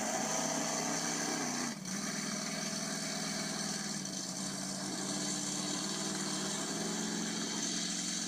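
Monster truck engine running steadily at idle, with a brief dip in level a little under two seconds in.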